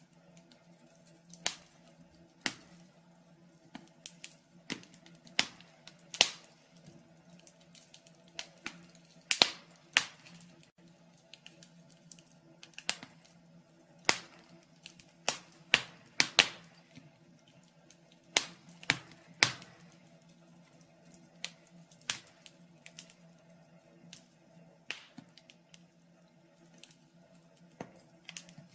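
Wood fire in a fireplace crackling: irregular sharp pops and snaps, one every half second to two seconds, some much louder than others, over a faint steady low hum.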